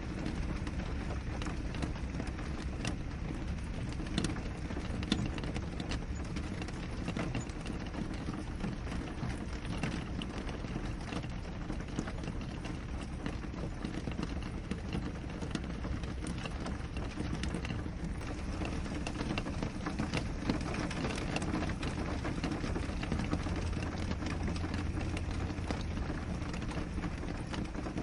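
Steady rain falling on a window, with many separate drops ticking against the glass over a constant low rush.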